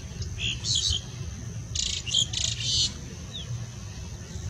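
Small birds chirping: a quick cluster of high calls about half a second in, then a longer run of chirps around the two-second mark, over a low steady rumble.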